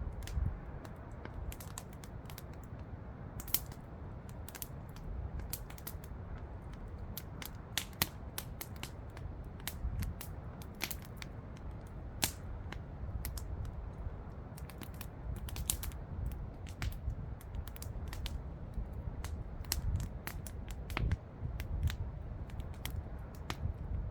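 Campfire crackling, with irregular sharp pops and snaps of burning wood, several a second at times, over a low steady rumble.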